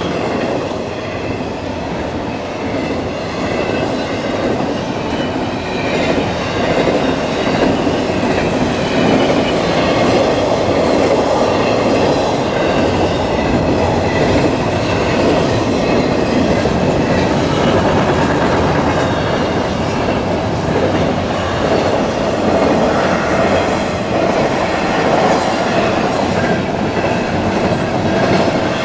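Canadian National freight train's double-stack container cars rolling past a grade crossing at a steady level.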